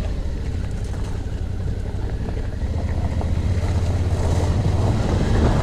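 Suzuki V-Strom's V-twin engine running at low speed on a rough dirt track, getting slightly louder toward the end, with wind buffeting the microphone.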